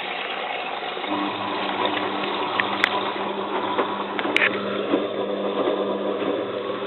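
Bosch WFF2000 washing machine taking in water, a steady rush of water. About a second in, a low steady motor hum joins it, and two sharp clicks are heard near the middle.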